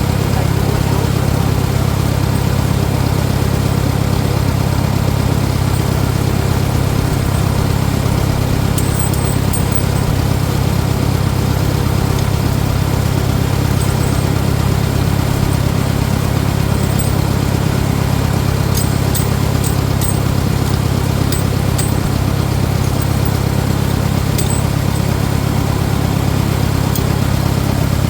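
Farmall 400 tractor engine running steadily at an even speed.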